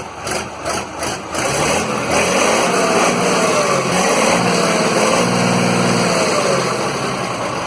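Diesel truck engine of a Magirus-Deutz truck running loudly, its speed rising and falling a few times through the middle, with an uneven, choppy start.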